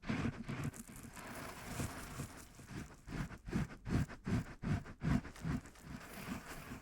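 Soft, low thumps in a steady rhythm of about three a second: a short run at the start and a longer run from about three seconds in, with a faint hiss between them.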